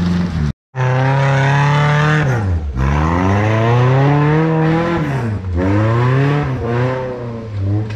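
Off-road 4x4's engine revving up and down over and over under load on a steep muddy climb. The sound cuts out briefly about half a second in.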